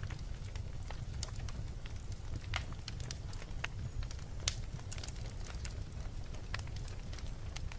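Wood fire burning in a fireplace, crackling with scattered sharp pops over a steady low rumble; one pop about four and a half seconds in is louder than the rest.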